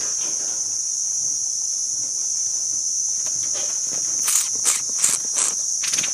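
Steady high-pitched insect drone. About four seconds in, a quick run of five or six short sharp sounds cuts through it.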